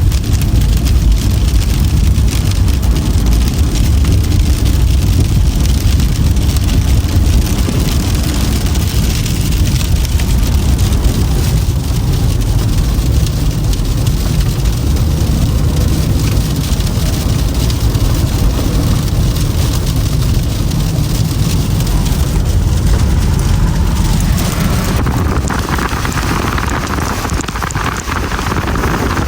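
A Toyota Camry driving on a snow-covered road: a steady low rumble of tyre and road noise with a hiss over it. About 25 seconds in, the deep rumble eases and a brighter, slushy hiss rises.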